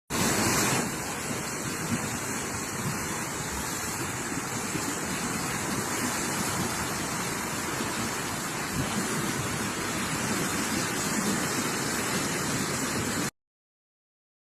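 Steady rushing noise of a typhoon's wind and rain, cutting off suddenly near the end.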